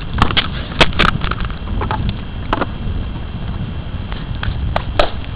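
Close handling noise of hands scrabbling in grass and dirt while grabbing a grasshopper: a low steady rumble with a scatter of sharp clicks and crackles, several in the first second and a few more later.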